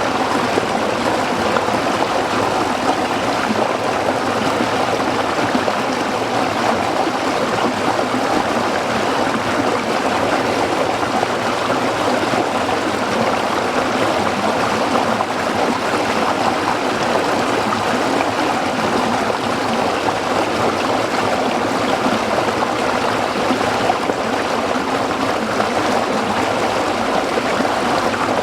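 A small stream flowing and splashing over rocks, a steady, even rush of water.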